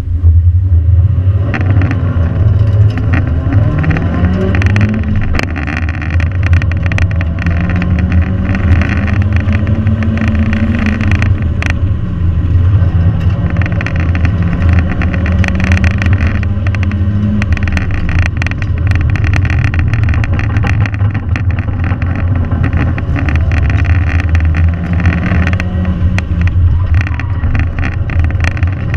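2001 Mazda Miata's four-cylinder engine running hard on an autocross course, its pitch rising and falling again and again with acceleration and lifts. A heavy low rumble of wind buffets the microphone in the open cockpit.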